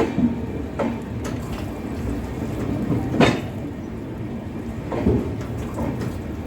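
Mahabodhi Express passenger train running along the track: a steady rumble broken by irregular sharp clacks of the wheels over rail joints, the loudest about three seconds in.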